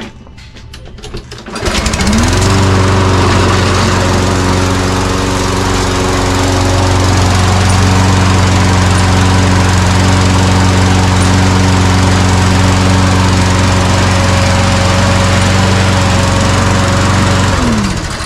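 Walk-behind lawn mower's small engine starting about two seconds in, climbing to speed and running steadily, then winding down and stopping near the end, as when the brake bail on the handle is let go to test the new brake cable.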